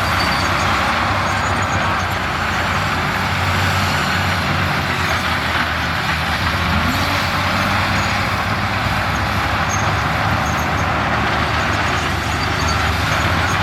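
Heavy diesel earthmoving machinery running steadily under load, with a brief rise in pitch about seven seconds in.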